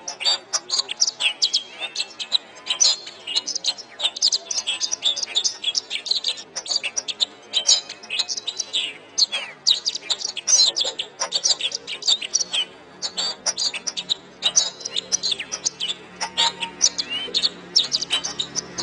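Domestic canary singing a rapid, continuous song of chirps and trills. A low steady drone comes in about two-thirds of the way through.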